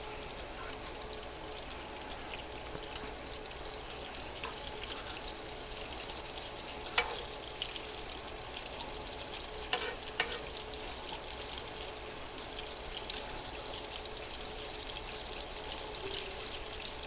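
Breaded chicken pieces frying in oil in a pan: a steady sizzle, with a few sharp clicks about seven and ten seconds in.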